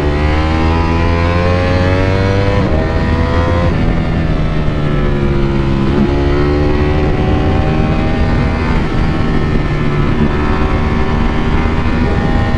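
Ducati Panigale V4's V4 engine running under load on the road: the revs climb over the first few seconds with a gear change about three seconds in, then fall away as the bike slows and hold steadier after.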